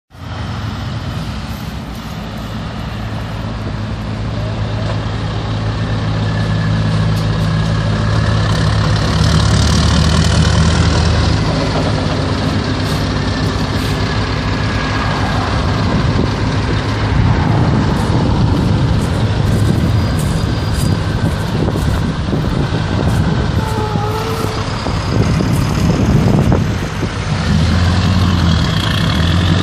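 Scania R500 truck's V8 diesel engine running, growing louder over the first ten seconds and then staying loud, with the engine note rising near the end.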